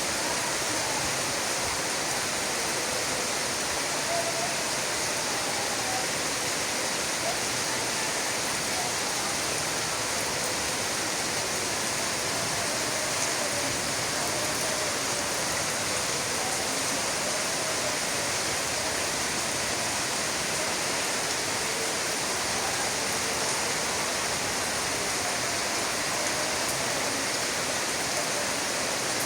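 Rain falling steadily, an even hiss that keeps up without let-up.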